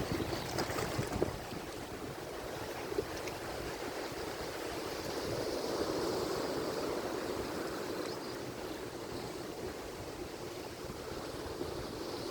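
Atlantic Ocean surf: waves breaking and washing ashore in a steady rush that swells and eases, with a few sharp crackles of spray in the first second or so.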